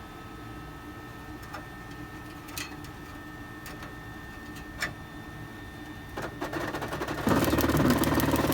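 FLSun delta 3D printer's stepper motors running an auto bed-level routine: a steady faint hum with a few scattered clicks. From about six seconds in a rattle starts, and a little over a second later it turns into a loud, dense buzzing grind that lasts to the end, which the owner puts down to a cable getting hung up on the moving carriage.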